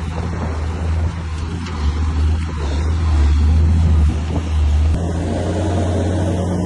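Heavy earthmoving machine's diesel engine running with a steady low rumble. It swells from about two to four seconds in and changes note about five seconds in.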